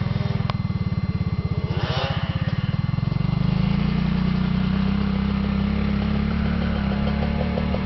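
Small motorcycle engine running, its individual firing pulses clearly audible for the first few seconds, then picking up into steadier, slightly louder running about three and a half seconds in.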